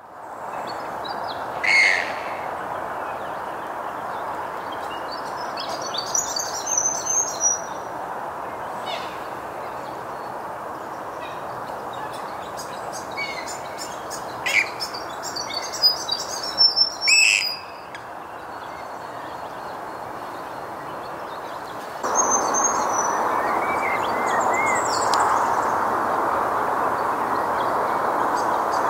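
Birds calling in short scattered bursts over a steady background hiss. About two-thirds through, the hiss steps up louder and high, thin calls of red-browed finches come in.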